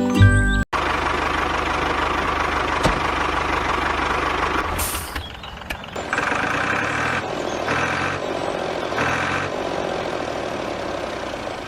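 Small motor-driven model machinery running with a steady noisy mechanical rattle. About five seconds in it dips briefly, then a higher whine pulses on and off three times.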